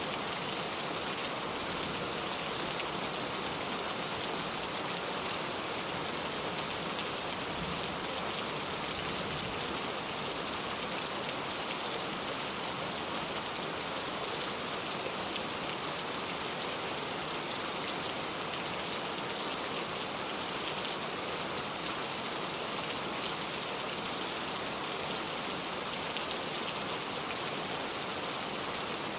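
Heavy rain pouring steadily, a dense even hiss with many fine drops pattering on surfaces.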